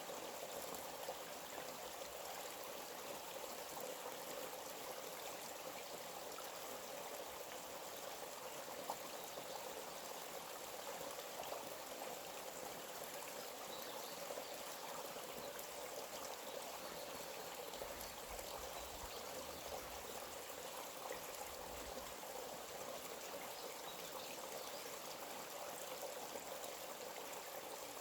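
A forest stream flowing steadily: an even, continuous rush of running water.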